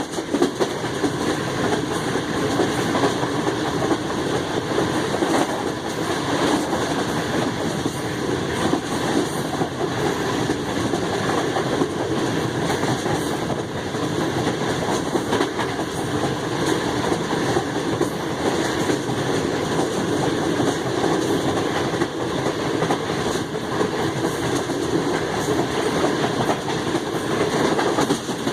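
Track rumble of a passenger coach running at speed: a steady rumble of wheels on the rails with light clicks from rail joints.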